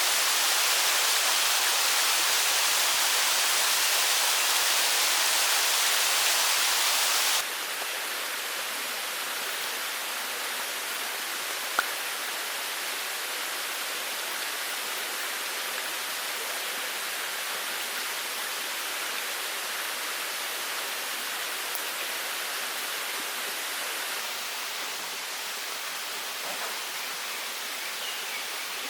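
Mountain stream rushing steadily over rocks. About seven seconds in the sound drops suddenly to a softer level, then carries on. A single sharp click comes a few seconds later.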